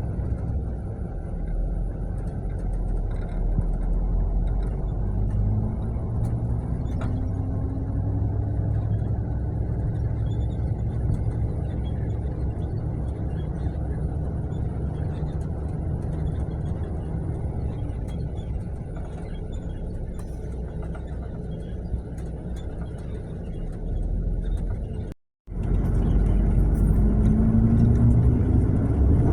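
Mercedes-Benz-chassis long-distance coach on the move: steady engine and road rumble, the engine note rising as it accelerates. The sound drops out for a moment near the end, then the engine climbs in pitch again.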